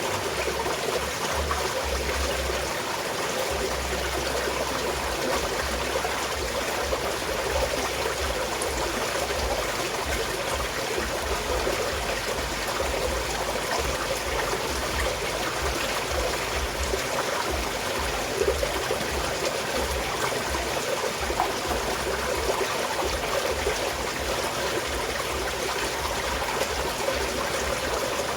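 Small mountain stream flowing and trickling steadily over rocks, an even rushing burble.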